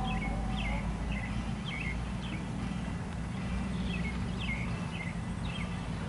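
A bird calling over and over with short downward chirps, about two a second, pausing briefly midway, over a steady low rumble.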